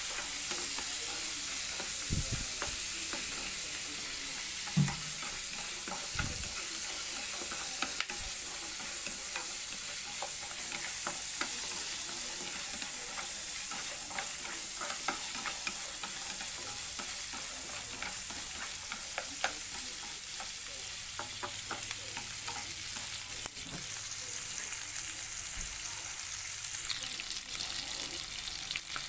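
Sparrows sautéing in a pan with lemon leaves: a steady sizzle with scattered clicks of stirring against the pan, and one louder knock about five seconds in.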